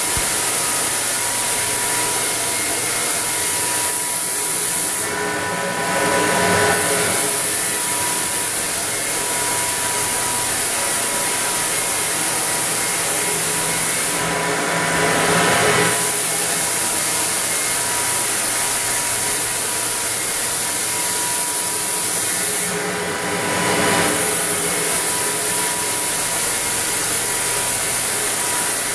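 Floor sanding machine running with 80-grit paper over a hardwood floor, sanding off dried gap filler: a steady motor hum under a loud grinding hiss. The sound shifts briefly three times, about five, fifteen and twenty-three seconds in.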